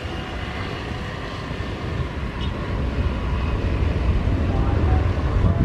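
Jet airliner engines at takeoff power, a deep rumble that grows steadily louder as the aircraft climbs out.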